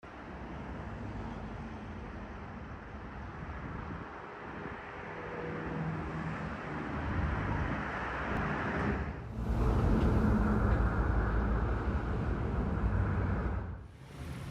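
Road vehicles running, heard as steady traffic rumble. The sound changes abruptly twice: it gets louder at about nine seconds and drops near the end.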